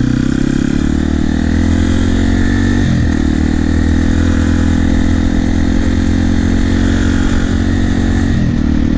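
Yamaha TT-R250 dirt bike's single-cylinder four-stroke engine running under way on a ride, its note dipping briefly in pitch about three seconds in and again near the end.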